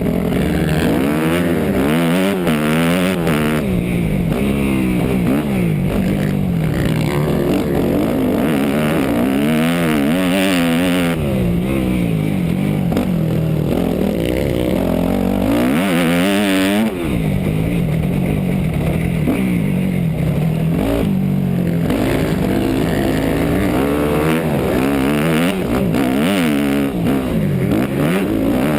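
250 cc four-stroke motocross bike's engine revving hard and easing off over and over as the rider accelerates, shifts and backs off around the track. A sharp rev-up comes about 16 seconds in, followed by a short cut in throttle.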